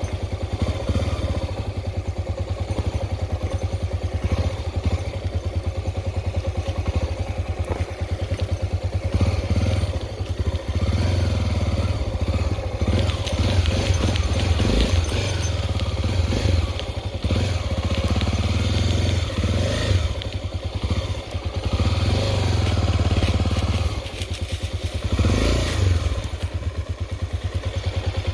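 Honda XR 250 Tornado's single-cylinder four-stroke engine running steadily with a strong low pulsing, the level dipping briefly a few times.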